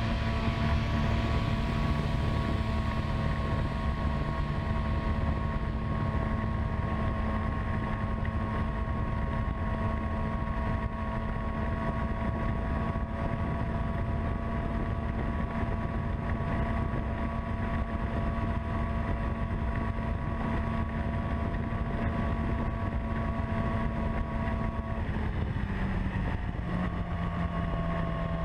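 Yamaha R6 sport bike's inline-four engine running at a steady pitch under way, with wind noise. The engine note drops in pitch about three quarters of the way through, then holds lower.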